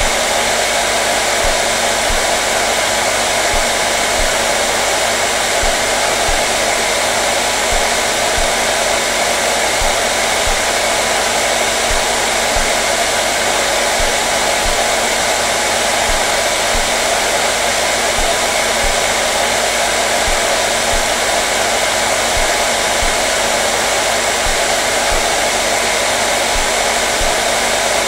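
Electric hair dryer running steadily: a constant loud rush of blown air with a faint motor hum, unchanging throughout.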